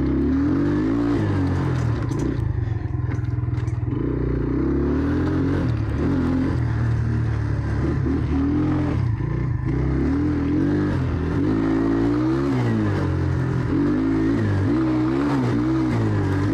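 Motorcycle engine revving up and down as the bike is ridden off-road, its pitch rising and falling every second or two.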